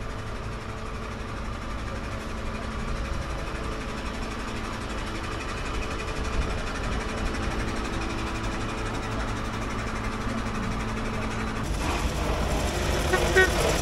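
A vehicle engine runs steadily. Near the end a veteran car's engine comes in louder as the car draws near.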